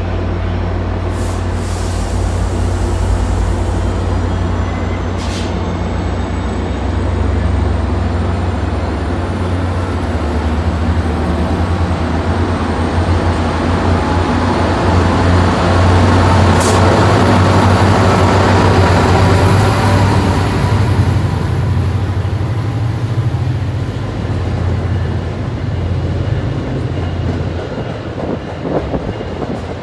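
MBTA diesel commuter trains at a platform: a steady low engine hum, with a departing train's wheels rumbling along the rails, building to its loudest mid-way and fading away. A faint high whine rises slowly in pitch over the middle, and a few short sharp clicks sound near the start and mid-way.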